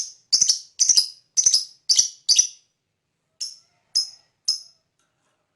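Lovebird chattering: a run of short, high-pitched chirping bursts, about two a second, each a quick rattle of notes. The last three are fainter, and the calling stops shortly before the end.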